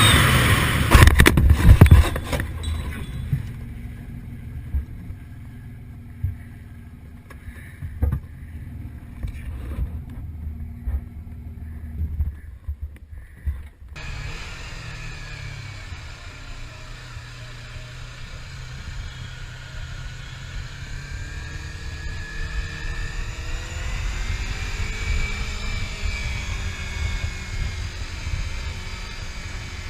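Motorcycle riding sounds: engine and wind rumble, loud for the first two seconds, then a low rumble with scattered knocks. About fourteen seconds in it cuts to a steadier low engine rumble with faint rising and falling tones.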